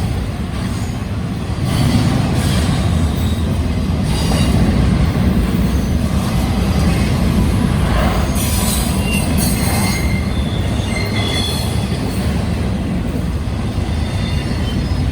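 Union Pacific double-stack container train rolling past with a steady heavy rumble of wheels on rail. Brief high-pitched wheel squeals and occasional clacks come through in the second half.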